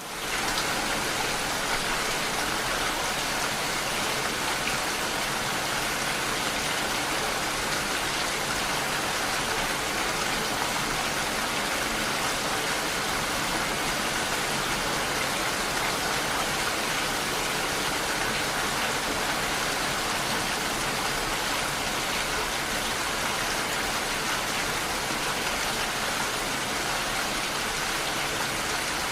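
Steady rain, an even hiss of falling drops, cutting in suddenly at a louder level at the start and holding constant throughout.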